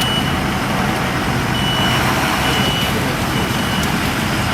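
A large vehicle's backup alarm beeps over a steady diesel-like engine rumble. One beep comes at the start, then after a short gap three more about once a second.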